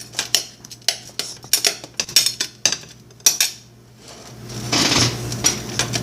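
A utensil scraping and tapping against a plate in a series of sharp clicks and scrapes, prying at hardened melted candy stuck to it, with a longer scrape about five seconds in.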